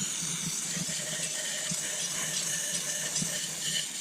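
WD-40 aerosol can spraying with a steady hiss, flushing grime out of a dirt bike's throttle parts.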